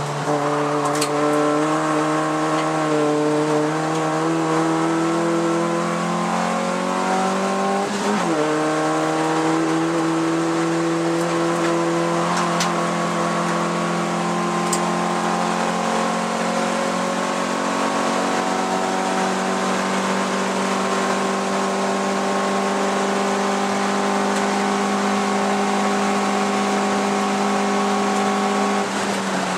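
Hyundai Excel race car's four-cylinder engine heard from inside the car at racing revs. About eight seconds in there is a quick drop and recovery in revs at a gear change, then the revs climb slowly and steadily for about twenty seconds before falling off near the end.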